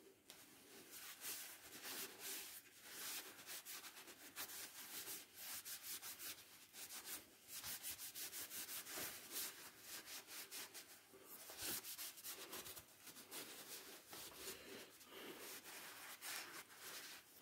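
Faint hand sanding: quick, irregular back-and-forth rubbing strokes of abrasive on the knife.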